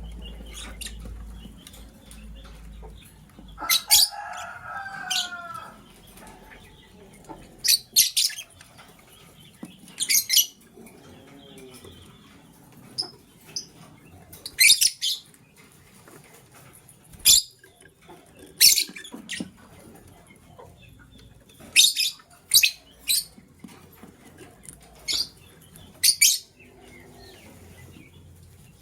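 Lovebird chirping: short, shrill chirps, some in quick pairs, repeated every one to three seconds.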